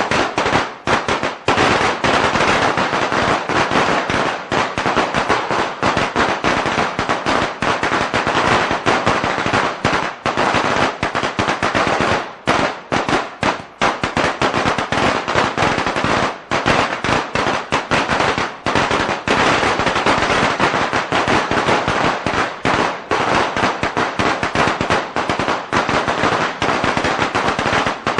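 A string of firecrackers going off in a rapid, unbroken crackle of sharp bangs, with a few split-second pauses along the way.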